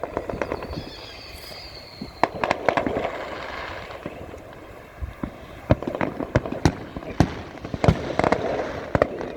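Fireworks going off: clusters of sharp bangs and crackling pops, with a faint whistle falling slightly in pitch during the first two seconds.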